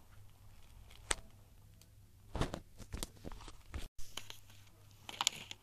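Scattered light knocks and taps, as from small items being handled and set down, with a short crinkly patch near the end.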